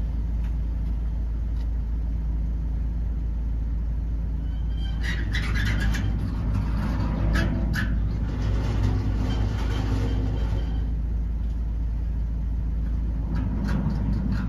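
Car engine idling with the car standing still, a steady low rumble. For several seconds in the middle, louder higher-pitched noise and a few clicks sound over it.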